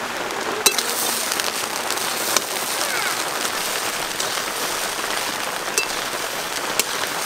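Steady rain falling, with a few sharp clinks of a metal spatula as fried rice is stirred in a metal karai.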